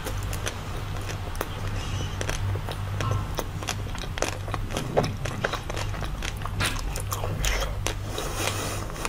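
Close-miked chewing and biting of a frozen green ice cream bar: a quick run of sharp crackles and crunches as the frozen coating breaks in the mouth, over a steady low hum.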